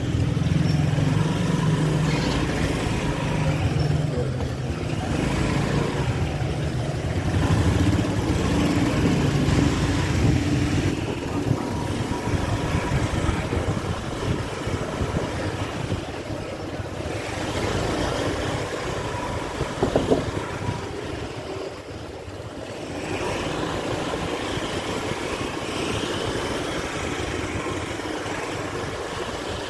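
Motorbike engine running while riding through city street traffic, with other motorbikes and cars around and the engine note rising and falling with speed. A short, loud burst of sound comes about twenty seconds in.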